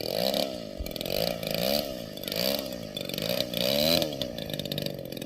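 35cc DLE single-cylinder two-stroke model-aircraft engine running and being revved up and down several times, its pitch swelling and dropping back about once a second.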